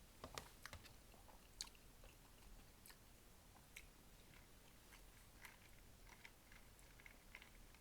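Faint chewing: a person eating, with scattered small mouth clicks.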